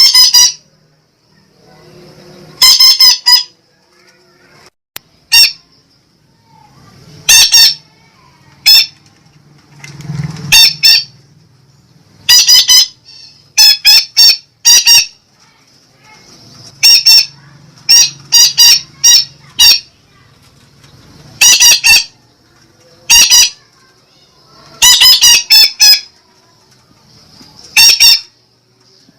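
A betet parakeet giving short, loud, harsh squawking calls, singly or in quick runs of two to four, repeated every second or two.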